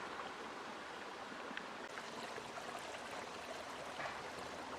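Shallow stream water babbling steadily, with small trickles and splashes.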